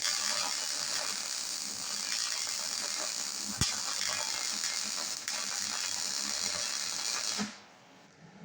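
Electric arc welding on steel plate: a steady crackling hiss with scattered sharp pops, which cuts off suddenly about seven and a half seconds in when the arc is broken.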